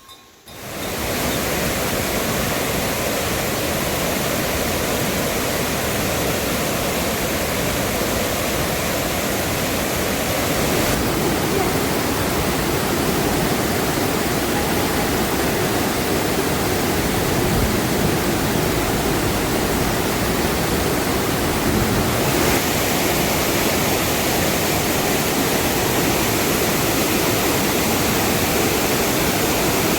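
Loud, steady rushing hiss of water, starting suddenly about half a second in and holding even throughout, its tone shifting slightly twice.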